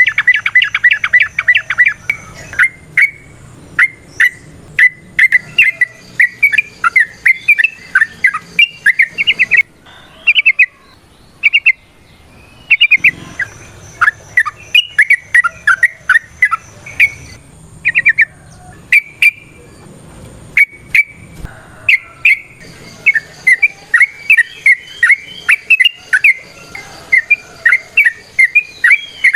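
Yellow-vented bulbul singing its rapid, bubbly song: a fast rattling run of notes at the start, then repeated phrases of quick liquid chirps that swoop up and down, with brief pauses about ten and twelve seconds in.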